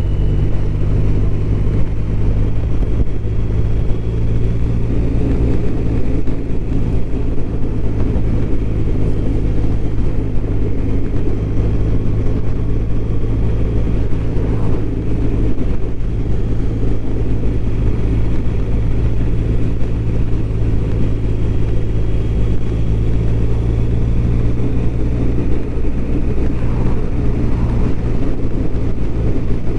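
BMW R1200RT's boxer-twin engine running at steady revs while riding at a constant speed, under a constant rush of wind and road noise.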